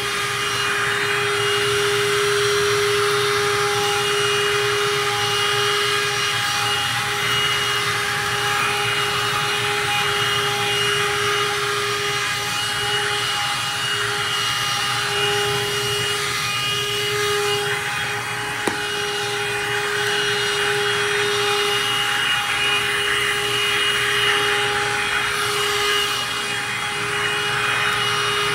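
Black+Decker Dustbuster QuickClean cordless handheld vacuum running steadily: a constant motor whine over a rushing airflow hiss, its pitch wavering briefly now and then.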